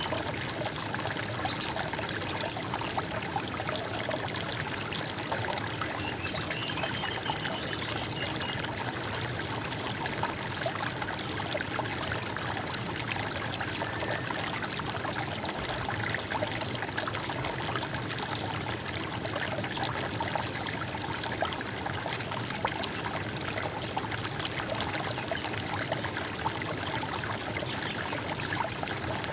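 Running water in a stream, a steady gurgling and trickling flow without a break.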